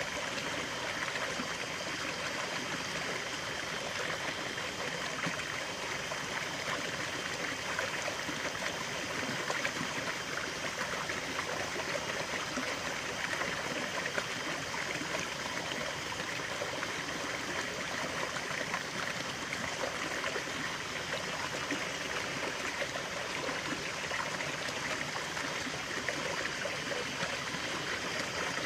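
Water running and trickling steadily over stones in a small stream, an even burbling with no pauses or changes.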